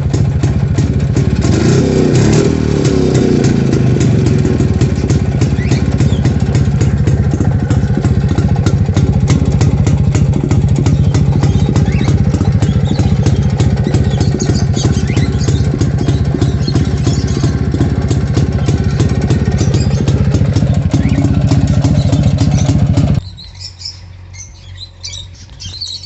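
Yezdi Classic 250's single-cylinder two-stroke engine running just after a cold start on the choke, blipped once about two seconds in, then cutting off suddenly a few seconds before the end. Birds chirp faintly once it stops.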